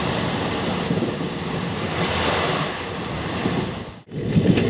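Steady rushing noise of a moving passenger train heard at an open carriage window, with wind on the microphone. It cuts out for an instant about four seconds in, then comes back as a louder, rougher low rumble of the train running.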